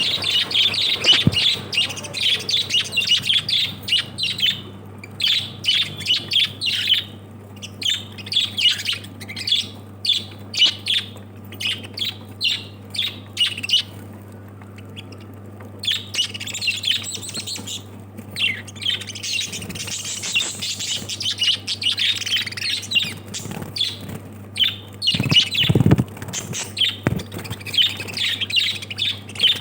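Small pet parrots chirping and squawking in rapid, overlapping bursts, with a short lull partway through. A steady low hum runs underneath, and there is a brief low thump near the end.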